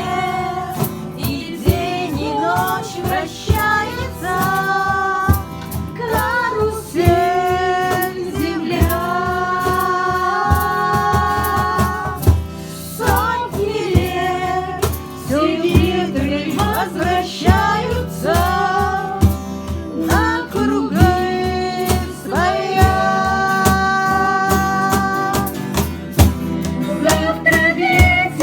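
A female voice singing a song over instrumental accompaniment with a steady rhythmic pulse.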